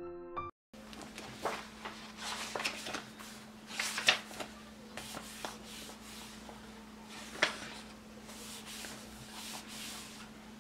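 Household handling sounds, likely in a kitchen: scattered knocks, clicks and rustles as things are moved and set down, over a steady low hum. The loudest knocks come about four seconds in and again about halfway through. A piano tune cuts off just at the start.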